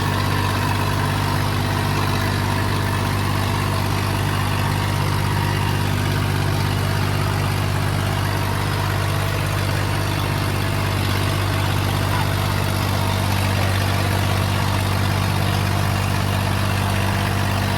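Tractor diesel engine running steadily at a constant speed, a deep even drone that holds without revving up or down.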